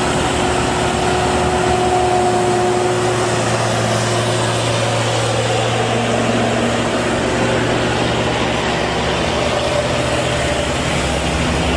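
Truck engine running steadily under load on a steep uphill climb, a continuous low drone that holds one pitch.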